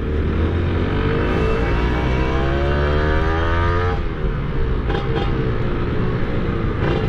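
Two-stroke motorcycle engine under acceleration, its pitch climbing steadily for about three seconds, then dropping suddenly at a gear change about four seconds in and running on at lower revs.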